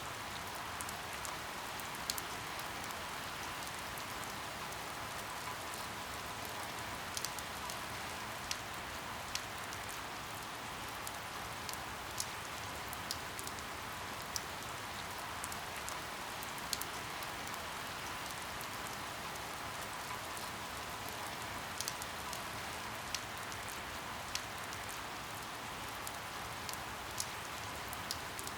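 Steady rain falling, an even hiss with scattered louder single drops ticking every second or two.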